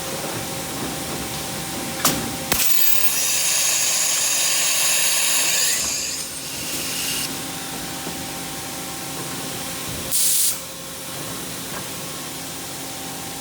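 CNC mill-turn machine running with a steady hum. Two sharp clicks come about two seconds in, then a loud hiss of spray lasts about three seconds, and a second short hiss follows near the end.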